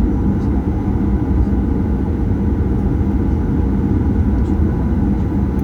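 Steady cabin noise of a Boeing 737-800 with its CFM56-7B engines running, heard from inside the cabin: a loud, even rumble with a few constant tones.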